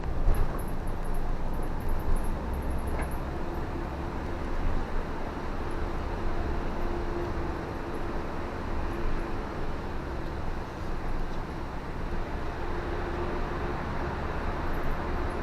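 Steady road noise of a car being driven on wet roads in the rain: a low rumble with tyre hiss and a faint steady hum.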